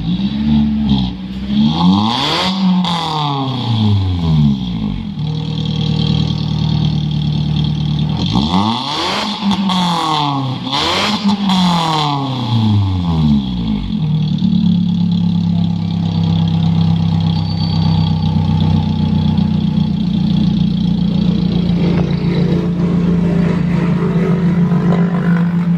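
Toyota Agya 1200cc inline-four blipped through a series of quick revs through an aftermarket 4-1 header and Alpino resonator and muffler. It settles to a steady idle, goes through a second round of revs, then idles evenly to the end.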